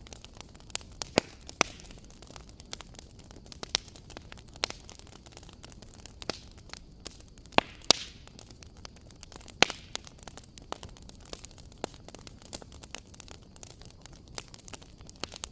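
Wood fire crackling: irregular sharp pops and snaps over a low steady hiss, with a few louder pops a little over a second in, around eight seconds in and near ten seconds.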